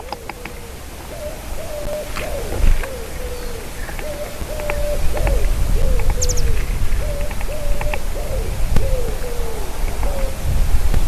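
A bird calling a long run of short, low hooting notes, some held level and some sliding down in pitch. A few faint high chips and clicks are mixed in, over a steady low rumble that grows louder about halfway through.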